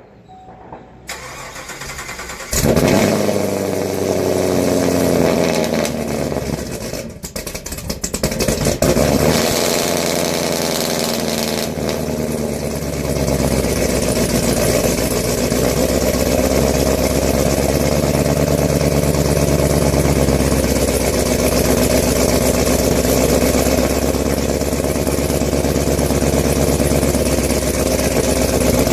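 Cold start of a 2017 Camaro SS's 6.2-litre LT1 V8 on E85. The starter cranks briefly and the engine fires about two and a half seconds in. It flares to a high idle, dips briefly, then settles into a steady fast cold idle that slowly drops in pitch.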